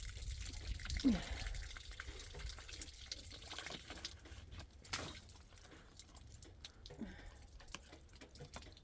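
Faint water dripping, with scattered sharp drips and ticks. A short falling voice-like sound comes about a second in and again near the end.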